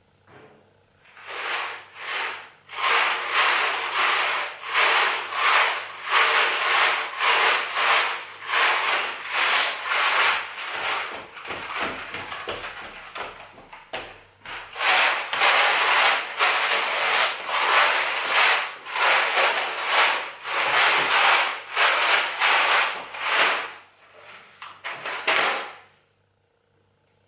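Rhythmic rubbing or scraping strokes, about two a second, with a short pause midway before they resume.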